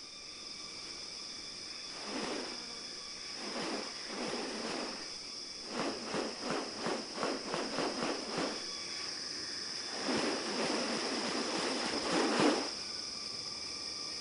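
Steady high-pitched insect drone of tropical rainforest. Over it come several short harsh rasping bursts, including a quick run of about three pulses a second in the middle and a longer rasp near the end.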